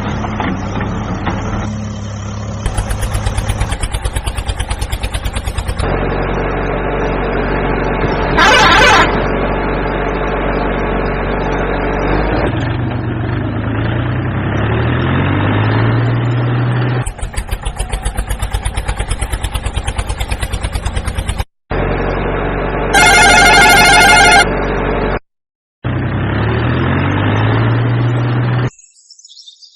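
Tractor engine sound running and revving, in pieces cut together with abrupt breaks. Two loud horn blasts, the second one warbling.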